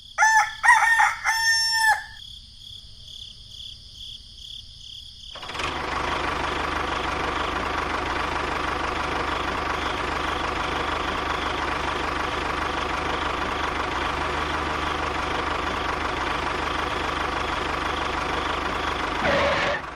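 A rooster crowing, then from about five seconds in a small machine running steadily with an even whir.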